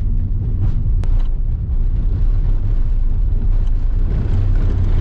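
Ford Transit Connect van driving fast on a forest road, heard from inside the cabin: steady low road and engine noise, with one sharp click about a second in.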